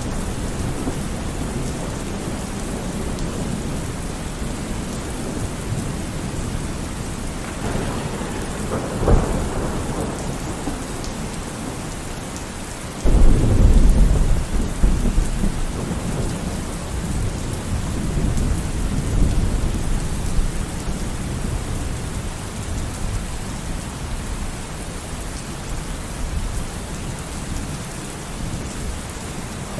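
Steady heavy rain with thunder. A low rumble builds with a sharp crack about nine seconds in; then a sudden loud thunderclap about thirteen seconds in rolls on for several seconds.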